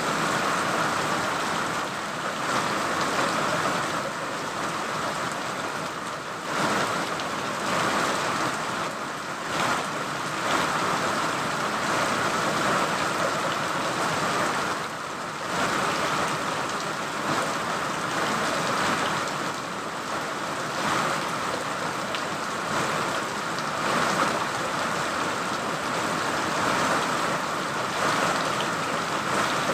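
Steady rain falling: an even hiss that swells and eases a little every few seconds.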